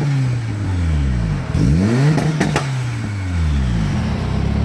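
Mitsubishi 4G63 inline-four engine being revved in a free rev: the revs drop from a blip, climb sharply to a peak about two seconds in, with a few sharp cracks at the top, then fall back to a steady idle.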